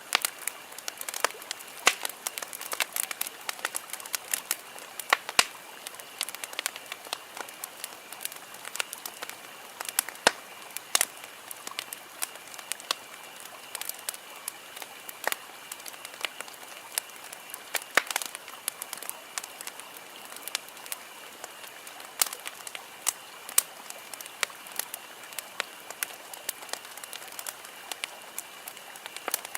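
Wood campfire crackling: irregular sharp pops and snaps from the burning logs over a steady soft hiss.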